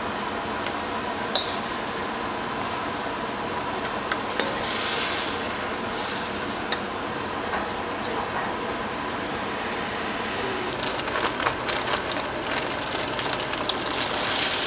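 Tomato, shallot and garlic sizzling in a wok on a gas burner, with short clicks and scrapes of a spoon and spatula against the pan. A run of quick crackles and clatter comes near the end.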